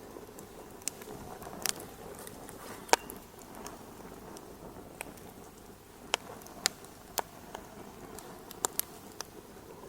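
Wood fire crackling: a steady soft hiss under irregular sharp pops and snaps, the loudest about three seconds in.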